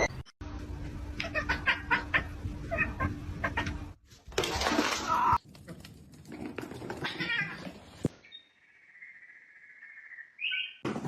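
Cats meowing across several short clips that cut abruptly from one to the next, with clicks and knocks in between.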